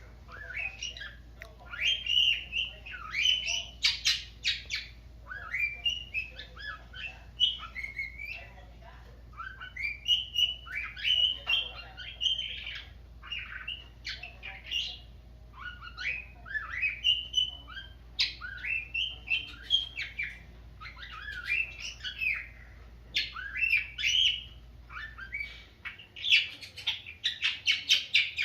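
Pet cockatiel and budgerigar chirping, whistling and squawking in a steady run of short phrases with quick rising and falling notes, broken by brief pauses.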